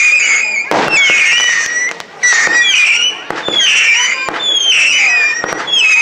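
Whistling fireworks going off in a rapid barrage: shrill whistles, about one a second, each bending and dropping in pitch, over sharp bangs and crackle.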